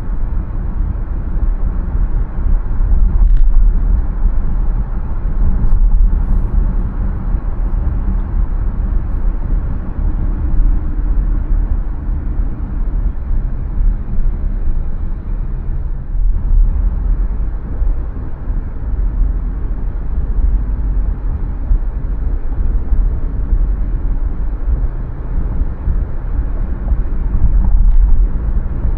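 A car being driven, with a steady low rumble of engine and tyre noise and a couple of faint ticks along the way.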